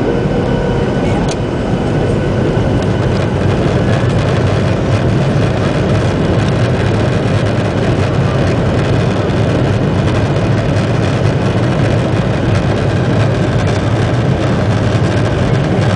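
Boeing 737-800's CFM56 jet engines running, heard as a loud, steady rumble with a hiss above it. The noise rises slightly about two seconds in and then holds steady, as during the taxi or take-off run.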